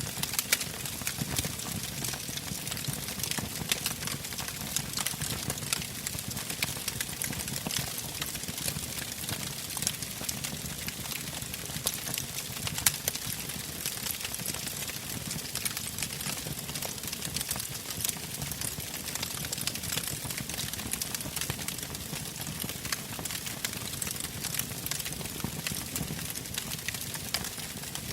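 Wood fire burning in a fireplace: many irregular crackles and pops over a steady low rush of flame, with one louder pop about 13 seconds in.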